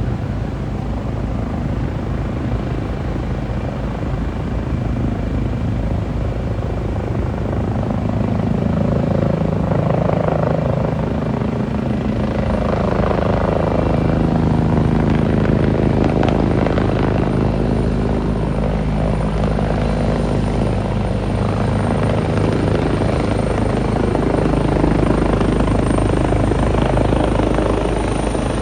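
Helicopter rotor and engine running loud and steady, its blade chop swelling a little about eight seconds in as it comes in to land. A thin high whine joins about twelve seconds in.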